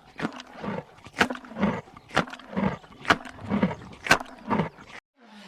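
A large wild animal calling in a steady rhythmic series, roughly two calls a second, alternating sharp high notes with lower ones.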